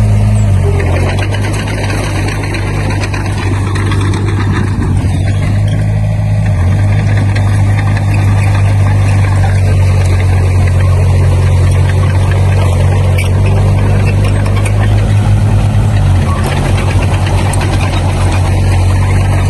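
Heavy construction-machine diesel engine running steadily with a low, even hum. Its note shifts briefly about half a second in and again around fifteen to seventeen seconds.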